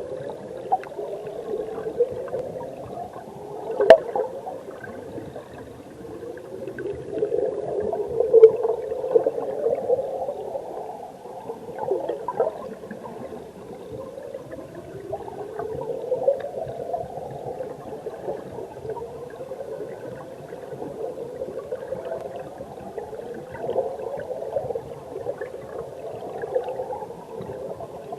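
Mountain stream water flowing and gurgling, heard from underwater: a muffled, continuous churn with repeated rising gurgles. A single sharp click sounds about four seconds in.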